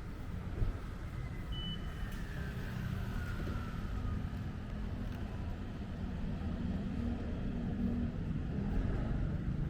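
City street traffic rumbling steadily, with a short high beep about one and a half seconds in and a faint falling whine over the next couple of seconds.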